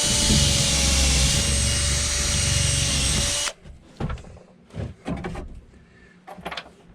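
Power drill with a countersink bit running steadily with a whine, countersinking a hole in wood; the bit is not very sharp. The drill stops suddenly about halfway through, followed by a few light clicks and knocks.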